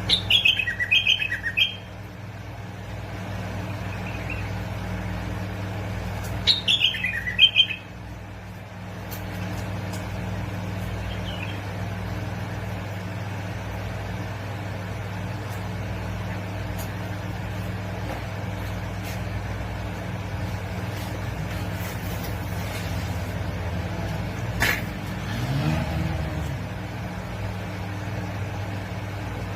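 Bulbul singing two short, loud phrases, one at the start and one about six seconds in. A steady low hum runs beneath, with a sharp click and a brief low rising-and-falling tone near the end.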